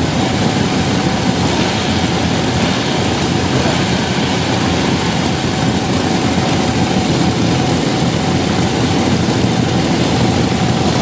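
Antique motorcycle engine running steadily, a dense unbroken din with a fast low pulsing.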